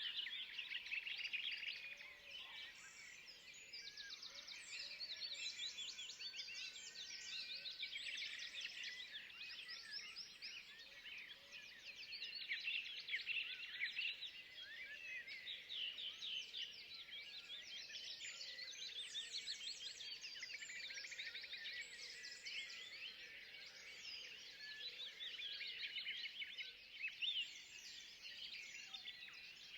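A chorus of many small birds chirping and twittering continuously, their quick, high calls overlapping.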